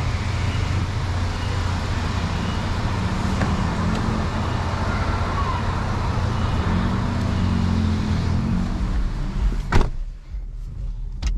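Infiniti Q50 3.0t's twin-turbo V6 idling with a steady low hum under an even wash of noise. Near the end comes a single sharp knock, after which the noise drops off.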